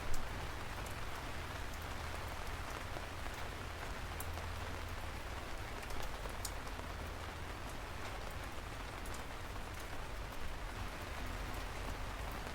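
Steady rain falling: a constant hiss with scattered sharp drip ticks and a low rumble underneath.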